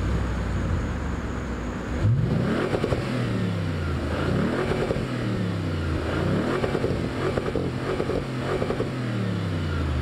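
Audi RS7's twin-turbo V8 engine revving. From about two seconds in its pitch climbs and drops several times, as when a car accelerates hard and shifts through the gears.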